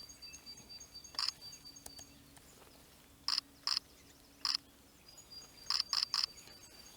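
Small songbirds giving a steady stream of very high, thin call notes in the trees, with sharp single clicks of a camera shutter over them: one about a second in, three through the middle and three in quick succession near the end.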